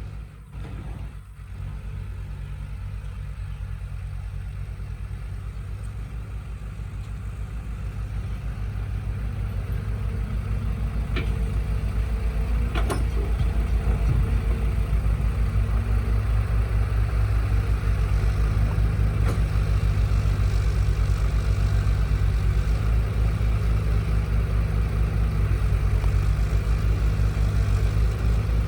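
Truck engine sound running at a steady idle with a fast, even firing rhythm, growing louder over the first dozen seconds or so and then holding steady.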